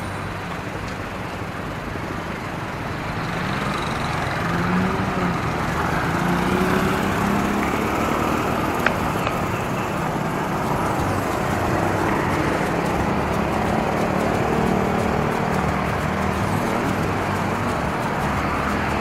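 Road traffic: the steady noise and engine hum of vehicles passing on a street, swelling a little after a few seconds, with one sharp click about nine seconds in.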